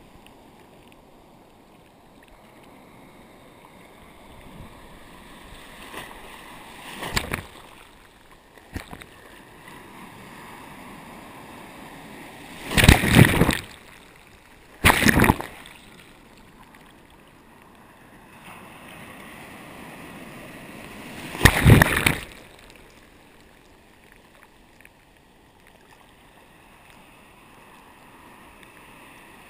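Ocean surf: a steady low wash of water broken four times by loud splashes of waves breaking close by, each lasting about a second.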